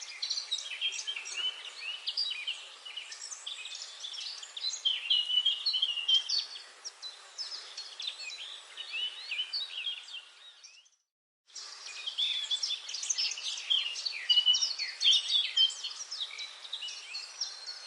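Forest birdsong: many birds chirping and warbling at once over a faint hiss. About two-thirds of the way through it fades out to a moment of silence and fades back in.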